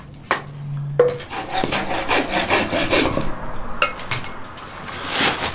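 Firewood being sawn by hand with quick back-and-forth saw strokes, after two sharp knocks on wood in the first second.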